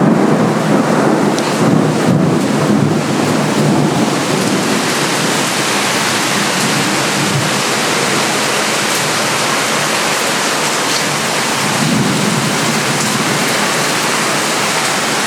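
Heavy rain pouring steadily, with low rolls of thunder at the start and again about twelve seconds in.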